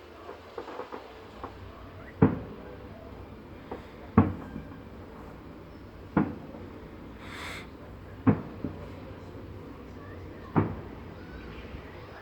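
Fireworks salute: five loud bangs about every two seconds, each with a short echoing tail, with smaller pops in between and a brief hiss about seven seconds in.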